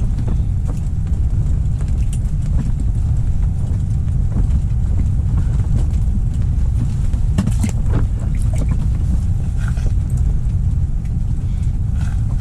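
Strong wind buffeting the microphone, a steady low rumble, with a few faint clicks and knocks.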